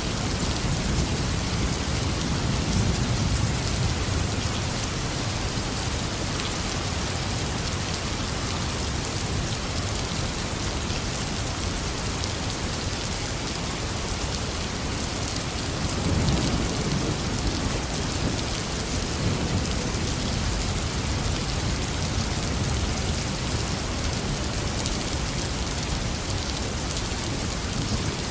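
Heavy rain falling steadily, with low rumbles of thunder swelling in twice, once at the start and again about halfway through.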